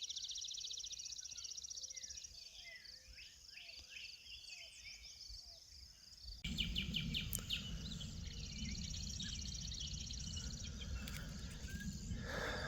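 Nature ambience: insects trilling steadily high up, with birds chirping now and then. About six seconds in the sound changes abruptly and a low rumble joins the insects and birds.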